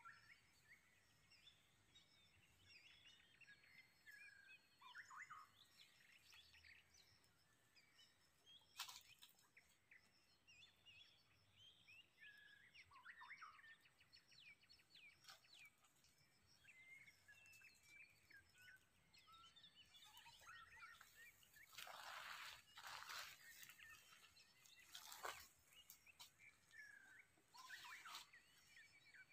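Faint birds chirping and whistling in short calls throughout, with a few brief rustles or scrapes about a third of the way in and again in a cluster near the end.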